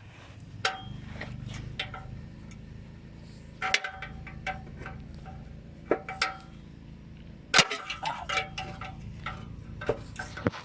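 Metal clinks, ticks and knocks of hand tools and exhaust parts being handled while a muffler and tailpipe are fitted, with two louder clanks about 4 and 7.5 seconds in, over a low steady hum.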